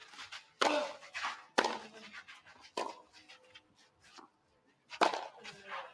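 Tennis rally: a ball struck back and forth by rackets, four sharp hits at uneven spacing with a longer gap before the last one.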